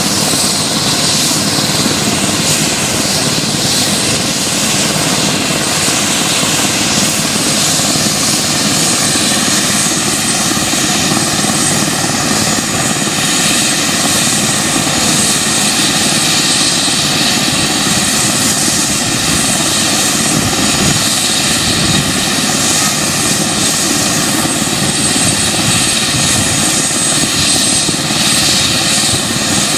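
Life Star medical helicopter running loudly and steadily, its turbine engine and rotor noise holding an even level without rising or falling.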